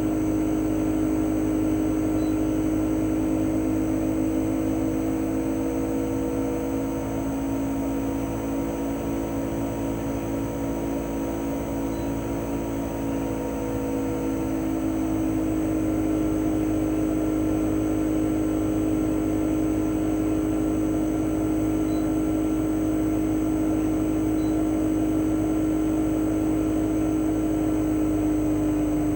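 Chofu AE-2844PX inverter air-conditioner outdoor unit running in cooling mode: the single-rotary compressor's steady hum with several fixed tones, over the propeller fan's whir. Partway through, the tones sag slightly in pitch and the sound eases a little, then comes back up and holds steady.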